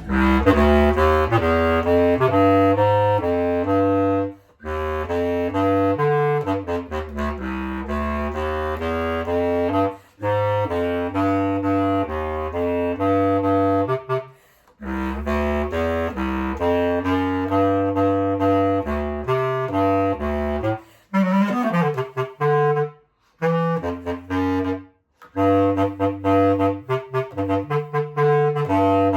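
Clarinet playing melodic practice phrases that step quickly between notes, stopping briefly several times, with a steady low tone sounding beneath the phrases.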